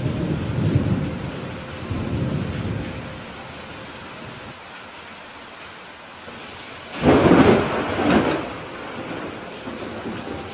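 Steady rain with thunder: two low rumbles in the first three seconds, then a louder, sharper thunderclap about seven seconds in, with a second peak a second later.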